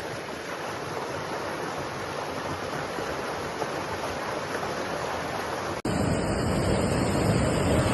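A steady, even rushing noise. About six seconds in it cuts off abruptly and is replaced by a louder rush with more low rumble.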